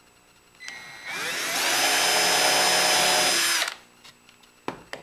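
Electric drill starting up about half a second in, spinning up to speed and running steadily for a few seconds as it drills a hole in a plywood template, then stopping. Two sharp clicks near the end.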